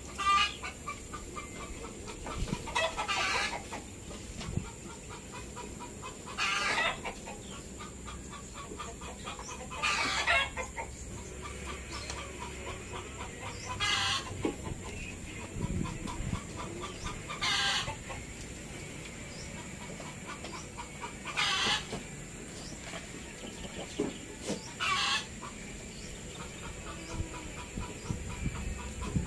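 A bird gives a short call over and over, about every three and a half seconds.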